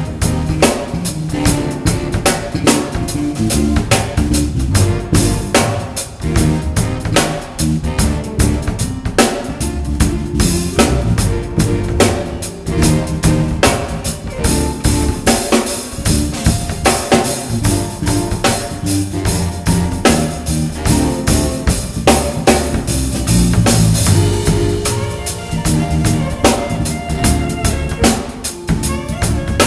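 Music led by a drum kit: a busy, steady beat of snare, rimshots and bass drum, with bass and melody notes underneath.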